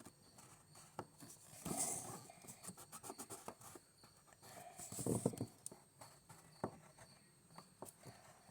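Scattered light taps and clicks with brief rustling, small objects being handled and set down on a tabletop.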